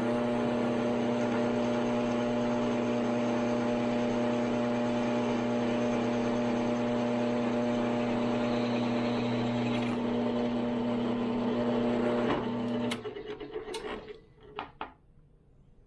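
An electric shop tool running with a steady mains hum and hiss, cutting off suddenly about 13 seconds in, followed by a few light clicks and knocks of metal being handled.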